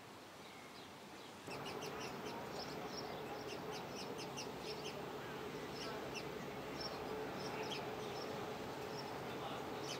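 Birds chirping with many short, irregular calls over a steady low hum. The sound steps up in level about a second and a half in.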